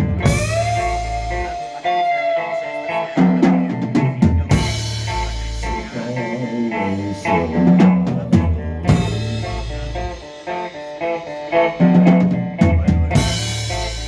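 Live rock band playing an instrumental passage on electric guitar and drum kit, with a big hit landing about every four and a half seconds.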